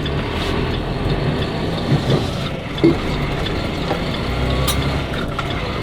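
Steady running noise inside a moving semi-truck's cab: the diesel engine's low hum under road noise, with a few short knocks about two and three seconds in.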